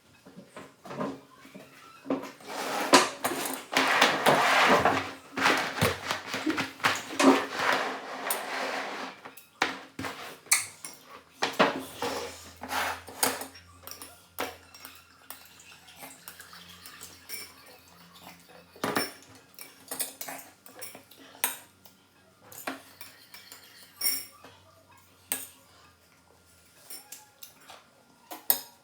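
Cutlery clinking and scraping against dishes in a run of separate clicks and clatters, busier and noisier for several seconds near the start.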